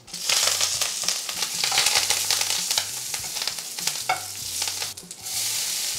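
Fresh curry leaves sizzling and crackling as they hit hot ghee with frying cumin seeds, stirred in the pan: a tempering (tadka). The sizzle starts suddenly, drops away briefly about five seconds in, then picks up again.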